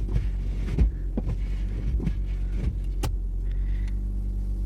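Suzuki Ignis petrol engine idling steadily just after a cold start, heard from inside the cabin. Over it the windscreen wipers sweep back and forth, a series of knocks and scrapes as they push snow off the glass, then stop about three seconds in.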